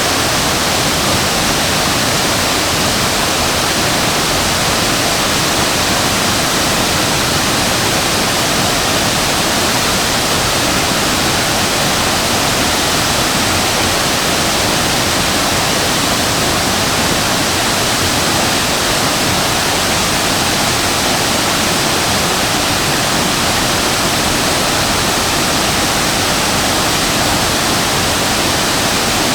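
Waterfall: the steady, unbroken rush of water falling and crashing, a dense even roar with no gaps or changes.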